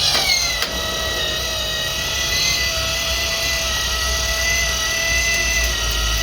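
Machinery running steadily with a high whine over a low rumble, its pitch sagging slightly in the first moment and then holding level.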